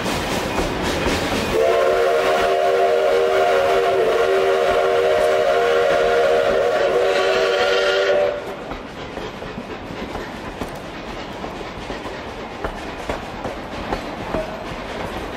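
A train horn sounds one long multi-note chord for about six and a half seconds and then cuts off. A train rumbles and clatters on the rails before and after the horn.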